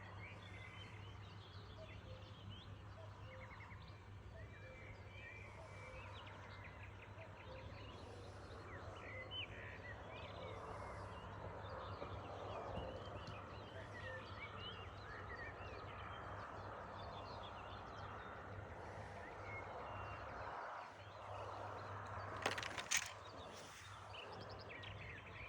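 Many small birds chirping and singing together in a morning chorus, faint, over a steady low hum. A couple of sharp clicks come near the end.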